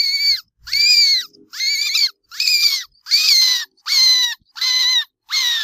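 Rat squeaking: eight short, high squeaks in an even series, each falling slightly in pitch.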